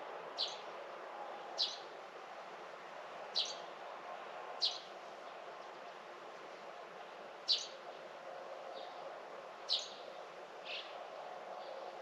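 A bird giving short, sharp chirps that fall in pitch, about seven in all, several in pairs about a second apart, over a steady faint outdoor hush.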